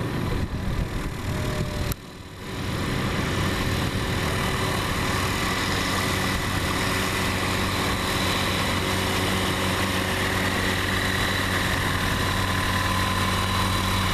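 An engine running steadily at a constant speed, a low hum with a fainter steady whine above it, coming in after an abrupt cut about two seconds in.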